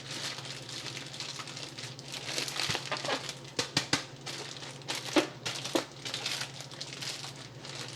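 Plastic food bag crinkling and rustling as it is handled, with several sharp crackles about a third to three-quarters of the way through.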